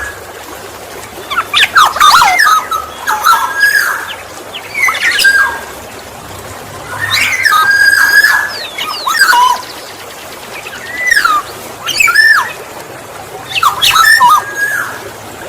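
Black-naped oriole (kepodang emas) singing: short phrases of clear, sliding whistles mixed with sharper notes, repeated every second or two.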